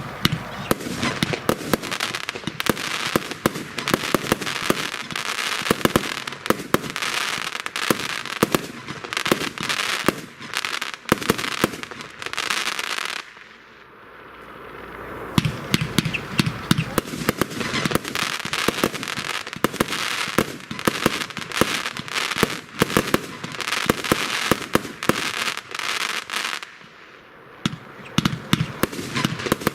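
A 100-shot, 30 mm consumer fireworks cake firing, a rapid, dense run of launches and bursts with crackle. It eases off briefly twice, about 13 seconds and about 27 seconds in, then picks up again.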